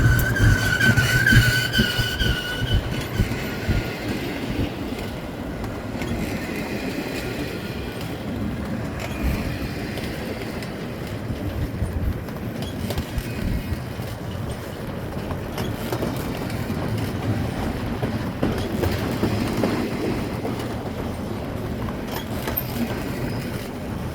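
Freight train rolling past: a steady rumble of cars on the rails, with a high wheel squeal that fades out in the first few seconds.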